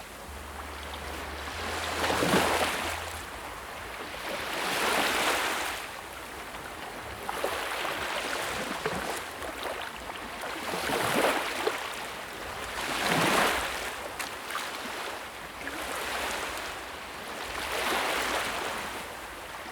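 Sea waves breaking and washing in, each wave swelling and then fading, about one every two to three seconds.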